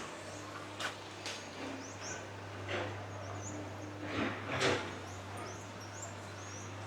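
Background ambience: a steady low hum with short high chirps every so often, a couple of clicks and a few faint voices.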